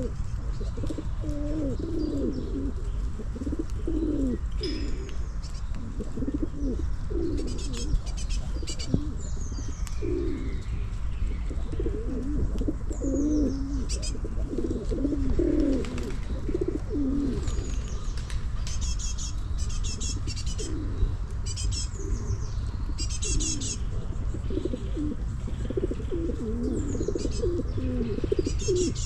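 A group of pigeons cooing, with many low warbling coos overlapping one after another. Bursts of high small-bird chirping come through several times, over a steady low rumble.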